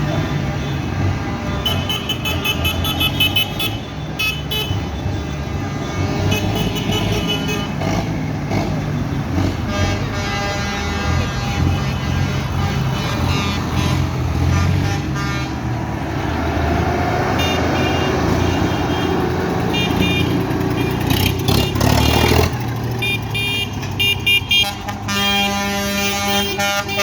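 Tractors driving past with their engines running, and horns tooting in repeated short blasts, with a longer held horn near the end.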